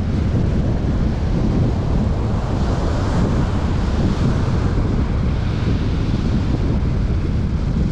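Strong wind buffeting the microphone in a steady low rumble, with surf washing on the beach that swells in a hiss about three seconds in.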